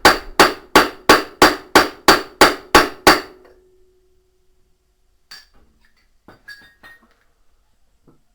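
Hammer striking metal in a quick, even series of about three blows a second, each with a ringing tone, driving a part into place during washing machine tub reassembly. The blows stop about three seconds in, the ring dies away, and a few light metallic clinks follow.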